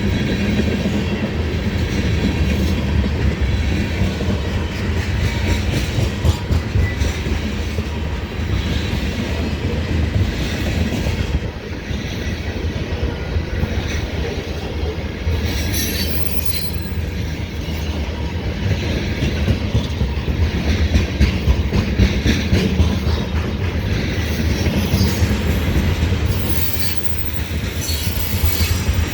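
Freight train of tank cars rolling steadily past, with wheel-and-rail rumble and clicking over rail joints. Brief high wheel squeals come about halfway through and again near the end.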